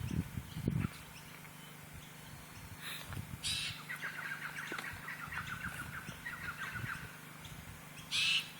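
Wild birds calling: a few short, sharp high calls, and a fast chattering series of many quick notes lasting about three seconds in the middle. A few low thumps come right at the start.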